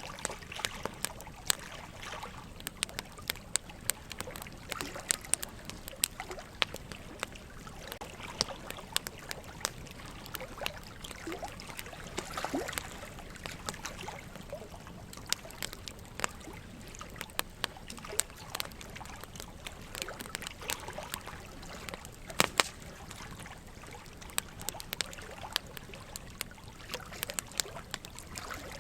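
Wood fire crackling, with frequent irregular sharp pops, over a steady trickle of running water.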